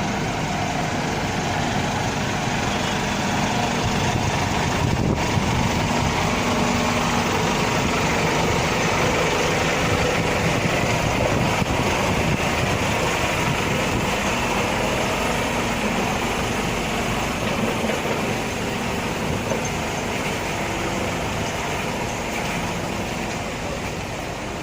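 Scania K320i articulated bus with its 9-litre engine running steadily, a continuous engine and road noise that swells a little in the middle and eases off near the end.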